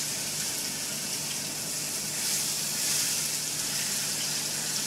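Banana pieces frying in hot oil in a pan, a steady sizzle.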